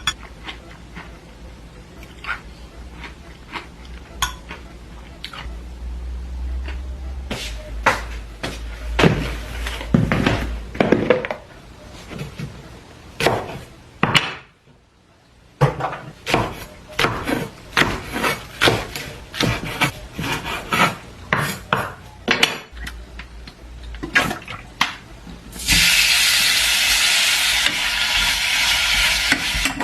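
Home kitchen sounds: dishes, utensils and cookware clinking and knocking in a long run of short hits. About 26 seconds in a loud steady hiss starts and keeps going.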